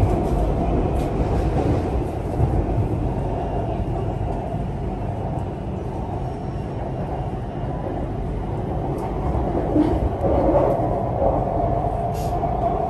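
Ride noise inside a BTS Skytrain carriage: the steady low rumble of the elevated electric train running along its track. A steady whine rises out of it in the last few seconds.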